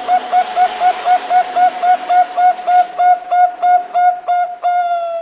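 Zebra dove (perkutut bangkok) singing: a rapid series of short, clear cooing notes about four a second at one steady pitch, ending in a longer held note near the end.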